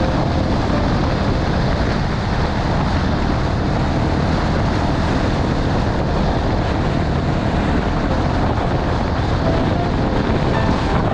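Honda XR250 Tornado's single-cylinder four-stroke engine running steadily under way, mixed with the rush of wind on the microphone and tyre noise from the loose gravel road.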